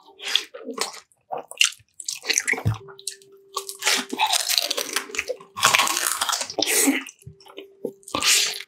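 Crunching and wet chewing of crispy food, in irregular bursts with short pauses.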